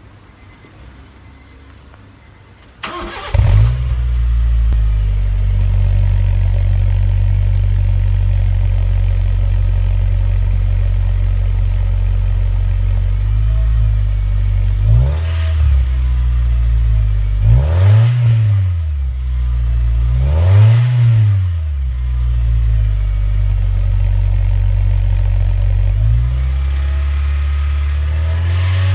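Honda Airwave GJ2's 1.5-litre four-cylinder started through a Kakimoto GT box 06&S aftermarket muffler: a brief crank, the engine catches about three seconds in and settles into a steady idle. A few short throttle blips rise and fall in pitch midway, and the revs climb again near the end; the engine is not yet fully warmed.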